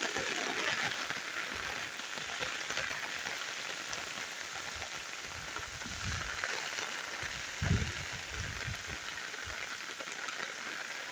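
Steady rain falling: an even hiss of drops. A few low thuds break through it, the loudest about three-quarters of the way in.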